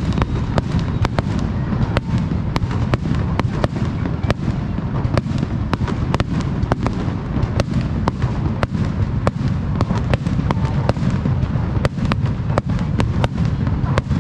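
Aerial fireworks display: shells bursting in quick succession, several sharp bangs a second over a continuous deep rumble.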